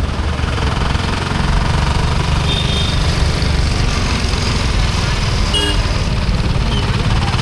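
Steady vehicle engine and road noise, with a pulsing low rumble of wind on the camera's built-in microphone while moving. A short high beep sounds a little past halfway.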